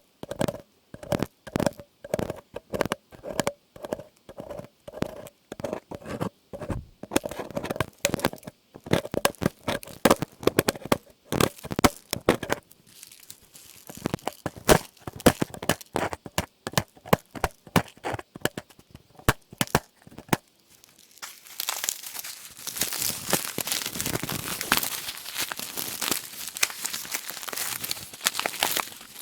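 Close-miked ASMR trigger sounds. Rhythmic tapping at a few taps a second with a faint ringing note loosens into irregular clicks and taps. About two-thirds of the way in it gives way to dense, continuous crinkling.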